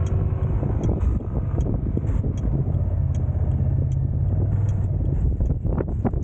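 Steady low road rumble and wind noise from a car driving, with a faint high tick recurring about every three-quarters of a second.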